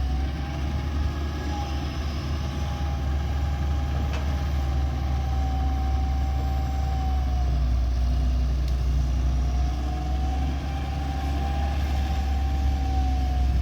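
Excavator's diesel engine running steadily with a deep rumble and a faint, slightly wavering high whine over it.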